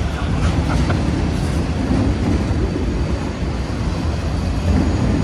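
CSX freight train rolling on the rails, a steady, loud low rumble of wheels and cars.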